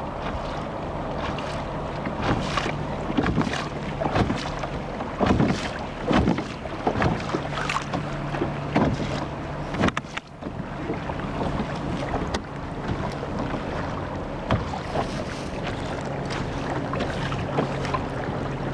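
Electric kayak under way: a low electric motor hum that comes and goes, with irregular splashes of water against the hull and wind buffeting the microphone.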